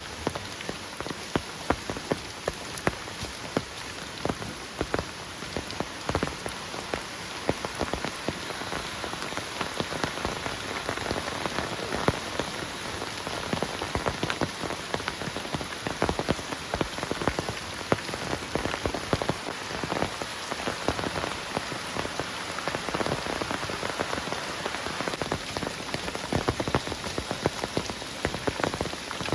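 Heavy rain falling steadily, with many individual drops striking sharply close by.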